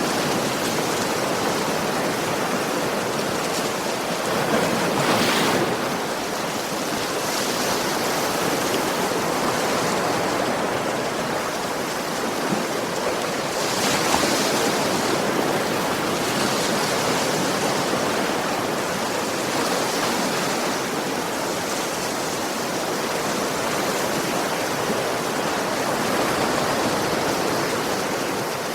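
Ocean waves washing onto a shore in a steady surf, with a stronger wave breaking about five seconds in and another about fourteen seconds in.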